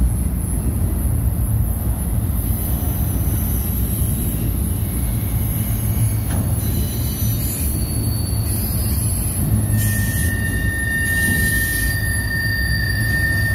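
Autorack freight cars rolling past with a steady low rumble of wheels on rail. Thin high-pitched wheel squeals come and go, and a louder steady squeal starts about ten seconds in.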